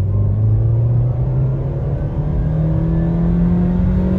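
2023 Nissan Versa's 1.6-litre four-cylinder engine, heard from inside the cabin, revving under full-throttle acceleration toward redline, rising steadily in pitch. It passes about 5,200 rpm with no sudden louder step or surge of power: this engine lacks the VTEC-like kick of the 2020–2021 Versas.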